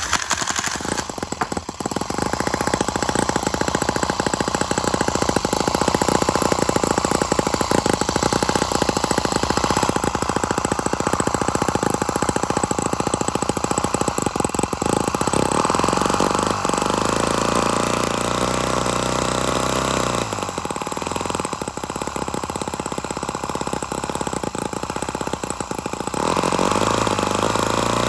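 Small model engine running fast with a rapid rattle of strokes. About halfway through its speed rises and falls, it dips briefly about two-thirds of the way in, then picks up and runs louder near the end.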